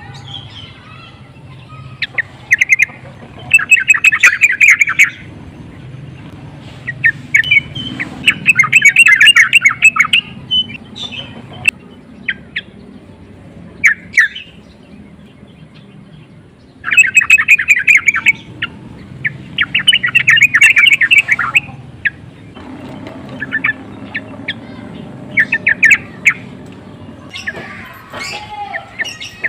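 Yellow-vented bulbul (trucukan) singing in bursts of rapid chattering notes, runs of one to two seconds separated by short pauses and single notes, the excited song used as a lure to provoke other bulbuls.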